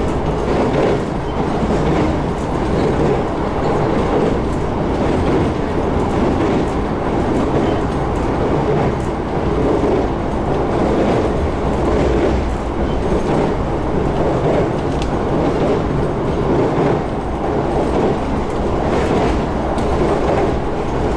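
Shinano Railway SR1 series electric train running at speed, heard from inside the passenger car: a steady rumble of wheels on rail, with scattered clicks as the wheels pass over rail joints.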